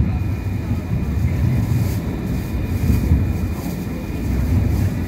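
Hong Kong Light Rail first-generation car running along the track, heard from on board: a steady low rumble of wheels and running gear that rises and falls slightly, with a faint steady whine above it.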